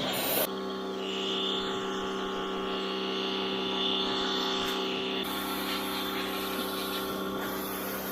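Pressure washer running with a steady hum. The spray hiss stops about half a second in, and a fainter hiss returns for a couple of seconds in the middle.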